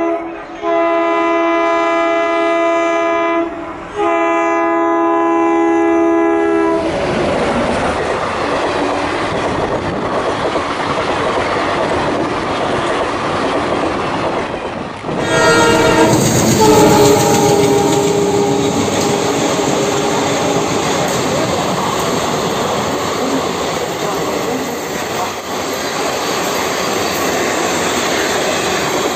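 A diesel locomotive's multi-tone horn sounds two long blasts, with a short break between them. Then comes the loud steady rumble and wheel clatter of passenger coaches passing on the rails. About halfway through, a horn sounds again briefly over the passing-train noise.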